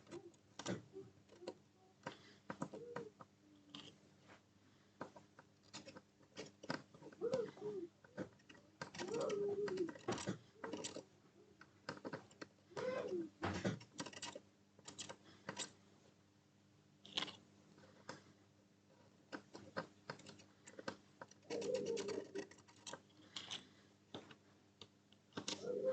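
A pigeon cooing now and then, in short low calls every few seconds. Many light, scattered clicks and taps run alongside.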